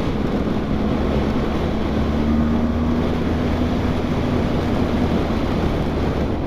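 Wind rushing over a motorcycle helmet microphone at riding speed, with the BMW R1200GS's boxer-twin engine running steadily underneath; the engine note rises a little about two seconds in.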